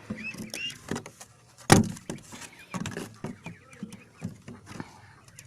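A rooftop bird coop being handled and shut: scattered clicks and rustling with one sharp knock a little under two seconds in, and faint calls from the birds inside.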